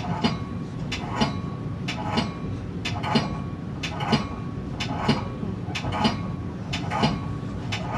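Metra commuter train rolling past, its wheels clicking over the rail joints about once a second, often in quick pairs, over a steady low rumble.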